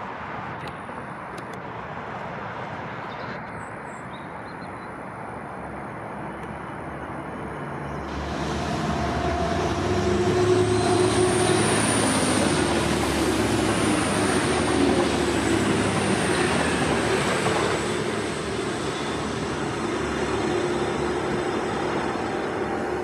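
TransPennine Express Class 185 diesel multiple unit passing close by: the running noise of its diesel engines and wheels on the rails grows louder about eight seconds in, stays loud for several seconds with a thin high whine on top, then fades.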